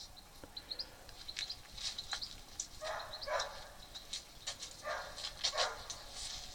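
Small birds chirping and twittering throughout, with four short, louder animal calls about three to five and a half seconds in.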